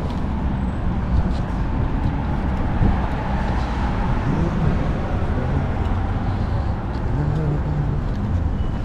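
Steady city road traffic noise, a continuous low rumble of cars.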